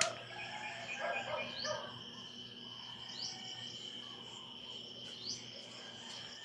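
Steady high-pitched insect trill, typical of crickets, with a few short rising chirps over it.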